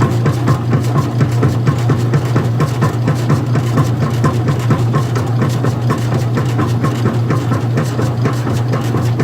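Old-style front-loading washing machine running with a steady low hum and a rapid, regular ticking of several ticks a second.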